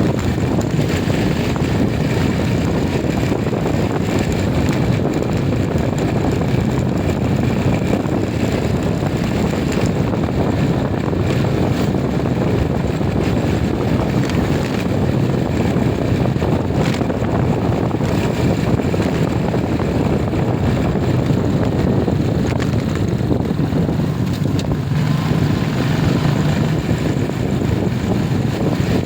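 Steady running noise of a moving vehicle, with wind rushing over the microphone.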